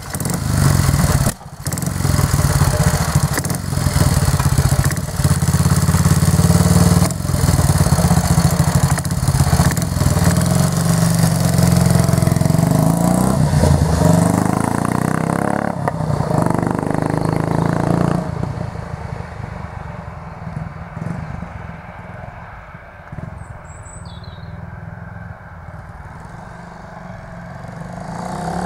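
Motorcycle being ridden, its engine pulling hard with wind noise over it, broken by a few brief dips as it changes gear. About two-thirds of the way in it eases off to a quieter, low running, and a couple of short high chirps are heard near the end.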